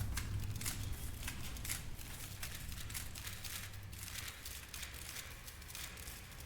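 Faint crackling with scattered clicks over a low hum, slowly fading.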